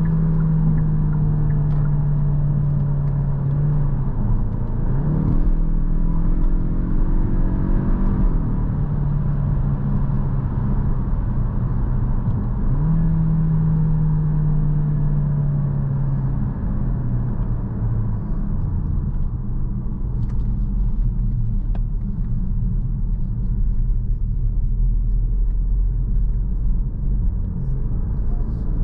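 Inside the cabin of a 2022 Kia Stinger 2.5T, its turbocharged four-cylinder pulling through the gears: the engine note rises in pitch about five seconds in, drops at an upshift around eight seconds, then holds and eases off, over steady road noise.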